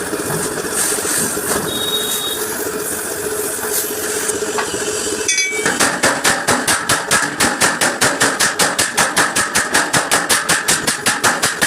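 Hammer blows on the steel of a truck bumper being beaten out, a fast even tapping of about six strikes a second that starts about halfway through, over a steady workshop hum.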